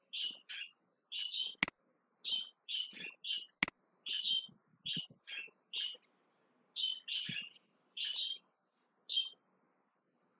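Small bird chirping repeatedly in short calls, about two a second, with a pause near the end. Two sharp clicks come about a second and a half and three and a half seconds in.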